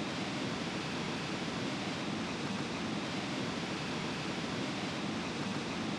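Steady beach ambience: ocean surf and wind as an even, unbroken hiss.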